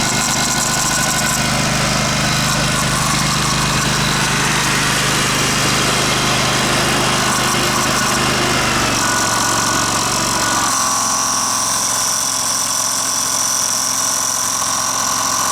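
Dixon zero-turn mower's Kohler engine running steadily, sounding like hell. About ten seconds in, the low rumble thins out and a steady high whine comes up.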